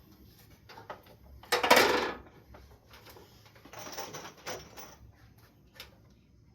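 Small metal objects clinking and rattling, with scattered clicks. A louder rattle comes about one and a half seconds in and a weaker one about four seconds in.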